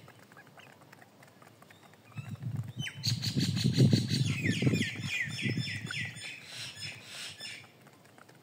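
A bird chirping a run of quick, high, falling notes, about three a second, starting about three seconds in and stopping near the end, over a cluster of low thumps.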